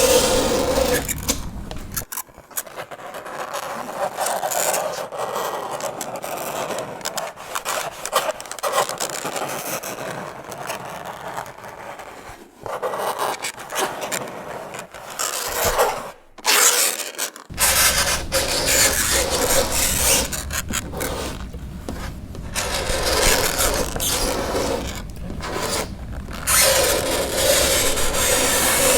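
Fingernails scraping across a chalkboard: a continuous rasping scrape in short strokes. A harsher screech sounds at the start and again near the end.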